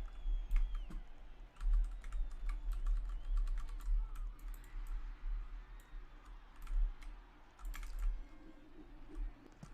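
Many quick, irregular light clicks and taps over a low rumble.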